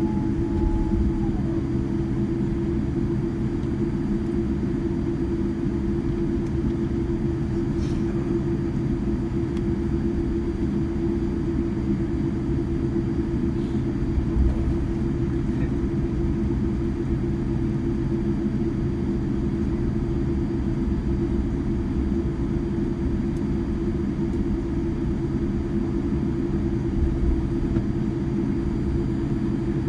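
Jet airliner taxiing: a steady low engine rumble with a constant hum, unchanging throughout.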